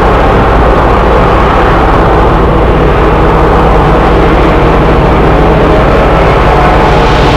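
Train running, a loud, steady rumble with a held engine drone.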